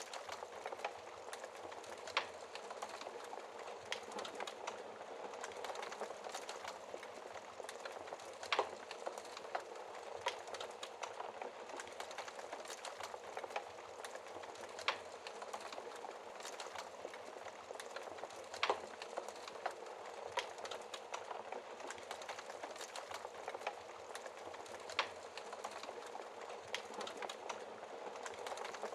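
Fire crackling in a fireplace: a steady hiss of flames with many small irregular crackles and a sharp louder pop every few seconds.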